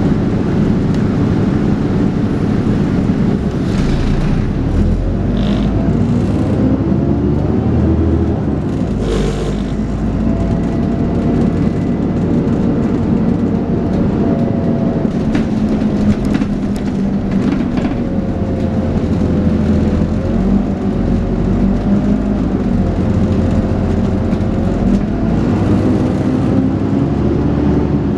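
Dennis Trident 2 double-decker bus running under way, its engine pulling and easing off several times with a whining 'hoover' tone that rises and falls with speed. Short rattles and clicks sound now and then.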